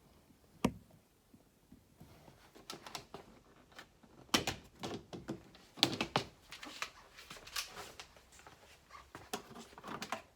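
Plastic fridge vent grilles on a caravan wall being handled and unclipped: one sharp click, then a run of irregular clicks, knocks and light rattles.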